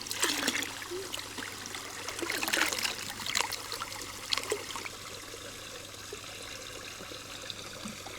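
Pond water trickling, with a few short splashes in the first half as crucian carp are let out into it, then a steady faint trickle.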